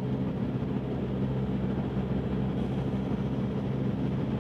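Volkswagen MK7 GTI's turbocharged 2.0-litre four-cylinder with an AWE Tuning aftermarket exhaust, cruising steadily at about 65 mph: a constant low exhaust drone over road and tyre noise.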